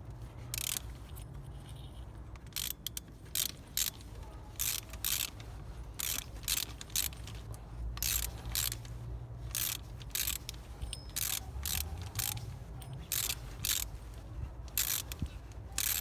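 Ratchet wrench clicking in short runs, about one or two a second, as the bolt of a Mercedes E350's idler pulley is undone to replace the pulley and its worn bearing.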